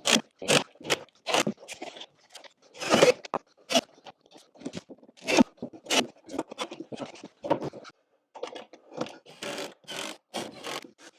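Plywood shelf panels being handled and tapped into place: irregular knocks and scrapes of wood, in short separate strokes with brief pauses between.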